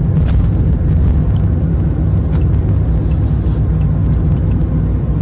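Steady low rumble of a car's running engine, heard from inside the cabin, with a few faint small ticks.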